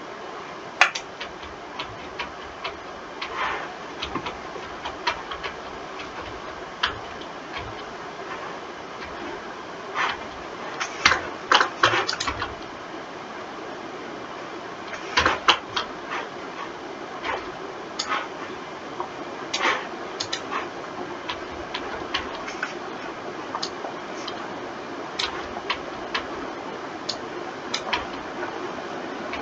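Irregular clicks of a computer mouse and keyboard, now single, now in quick clusters, over a steady background hiss.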